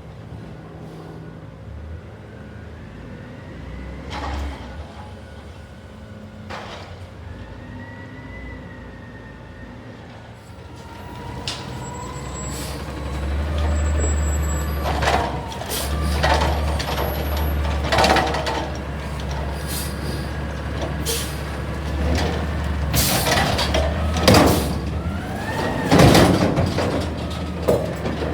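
CNG Peterbilt 320 front-loader garbage truck working: its engine runs low at first, then revs up about ten seconds in under hydraulic load, with a whine rising and falling. Several loud metal bangs come in the second half as the dumpster is worked.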